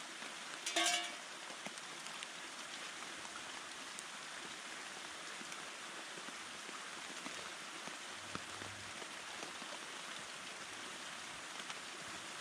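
Steady rain falling, with one brief, louder sound about a second in.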